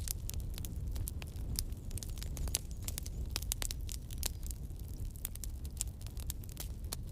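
Campfire burning: a low steady rumble of the flames with many sharp, irregular crackles and pops from the burning wood.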